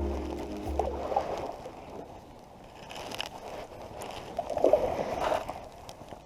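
Paddle strokes pulling through the water beside an aluminium Grumman canoe, with gurgling and sloshing and one louder swirl of water about five seconds in. Background music fades out in the first second.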